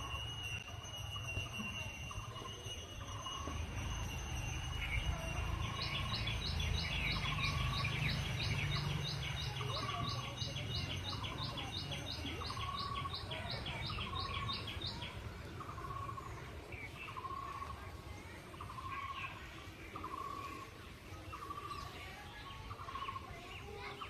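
Outdoor birdsong: one bird repeats a short call about every second and a half, while a rapid, even trill runs through the middle, over a steady low rumble.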